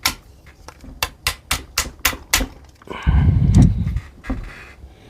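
Sharp light taps, about four a second, as a tight-fitting oversized cocking handle is tapped onto a Umarex Zelos air rifle's action. A low rumble of handling about three seconds in, then one more tap.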